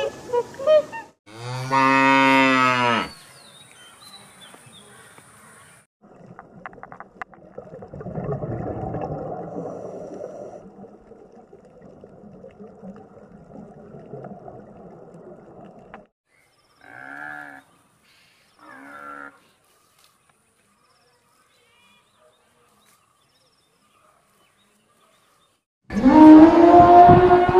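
A cow mooing once, a long low call about a second and a half in. Later come two short calls, and near the end a loud animal call begins.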